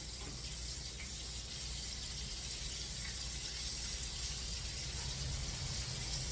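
Chicken nuggets frying in hot oil: a steady sizzle, with a low hum underneath.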